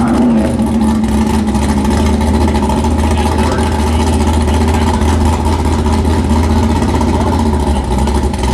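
Car engine running at a steady speed, a continuous drone that holds its pitch throughout.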